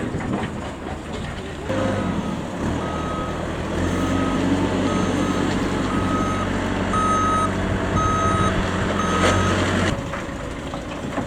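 A vehicle's reversing alarm beeping about once a second over a running engine; both stop abruptly near the end.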